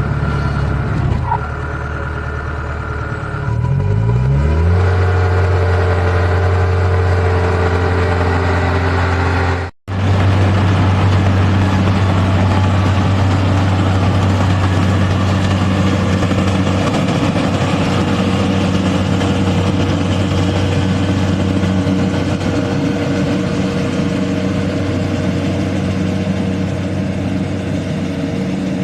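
Rice combine harvester engine running under load. It revs up about four seconds in, then holds a steady pitch, and breaks off for an instant about ten seconds in.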